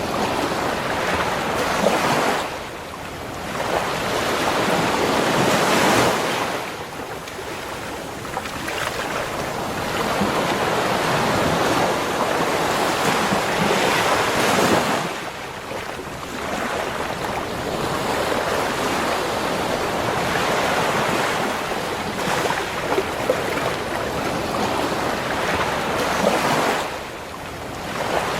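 Ocean surf breaking and washing up a beach: a continuous rush of water noise that swells and eases, with a few brief lulls between waves.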